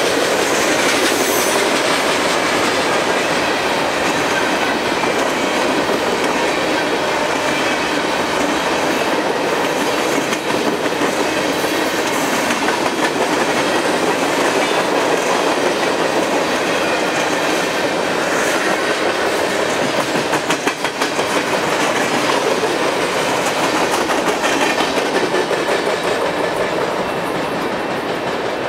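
Freight cars of a manifest train rolling past: a steady rattle of steel wheels on rail with many quick clicks, easing off a little near the end as the cars move away.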